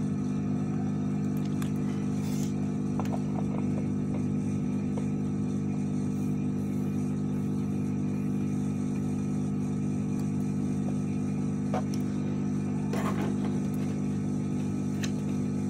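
Steady electric motor hum from the repair bench equipment, even and unchanging, with a few light clicks of tools scattered through it.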